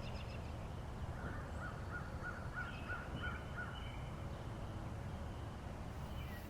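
A bird calling a quick series of short notes, about four a second, over a steady low rumble.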